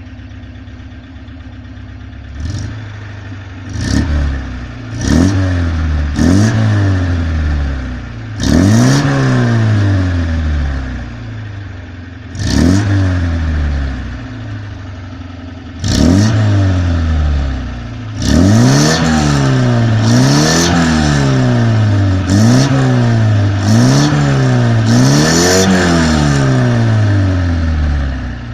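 Moskvich 2140's four-cylinder petrol engine idling, then revved in short throttle blips. A few spaced blips come first, then a quick run of about eight revs, roughly one a second, before it drops back to idle near the end.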